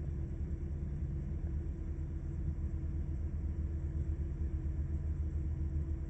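2000 Chrysler 300M's 3.5-litre V6 idling steadily, about a minute after a cold start.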